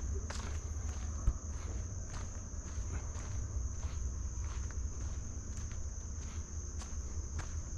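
Footsteps walking along a woodland trail, with a steady high-pitched insect chorus throughout and one sharp knock a little over a second in.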